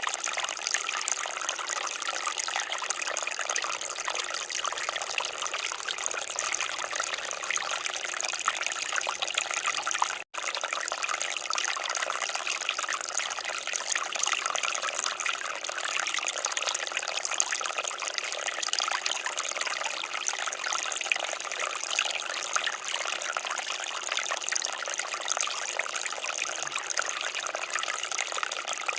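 Water fountain splashing and trickling in a steady, even rush, with a split-second dropout about ten seconds in.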